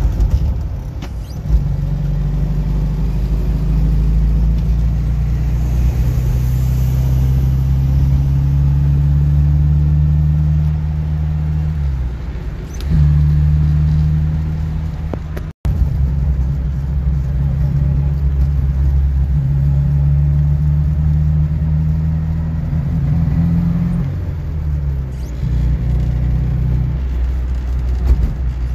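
1969 Mini Cooper's A-series four-cylinder engine running under way, heard from inside the small cabin over road noise. The engine note shifts in pitch about twelve seconds in and again near twenty-five seconds, and the sound breaks off for an instant about fifteen seconds in.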